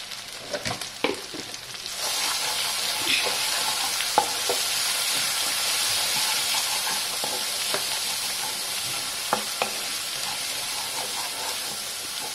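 Spiced masala, with freshly added turmeric and chili powder, sizzling in a pan. The sizzle grows louder about two seconds in. A spatula clicks against the pan a few times as it is stirred.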